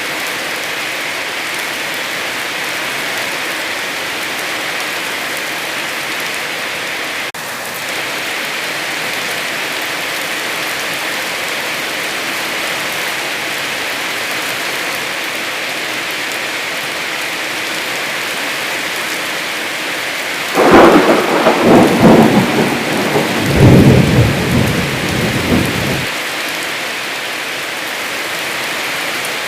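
Heavy rain falling steadily. About twenty seconds in, a loud crackling clap of thunder rumbles for some five seconds.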